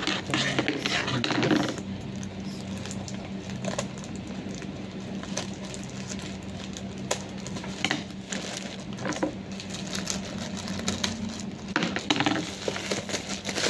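Doll packaging being handled for unboxing: scattered light clicks and rustles, busiest near the start and again near the end, over a steady low hum.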